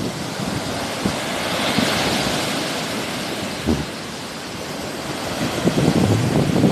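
Sea waves washing onto the shore as a steady hiss, one wash swelling about two seconds in. Wind buffets the microphone with low rumbles that grow stronger near the end.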